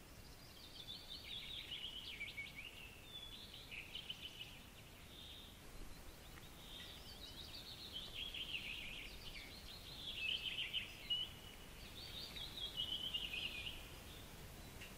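A songbird singing, with about six bright phrases of quick chirps that sweep downward, separated by short pauses. A faint, steady hiss runs underneath.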